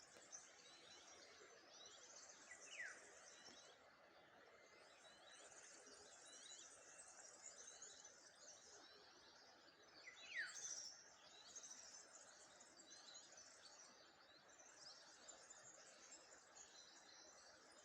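Faint chorus of small birds chirping and twittering, with a clear downward-sliding whistle twice, about 3 seconds and about 10 seconds in.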